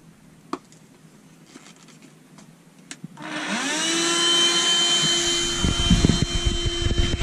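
A vacuum cleaner switches on about three seconds in. Its motor whine rises quickly and then holds steady with a loud rushing hiss, and from about five seconds in there are bumps and knocks as it is moved around.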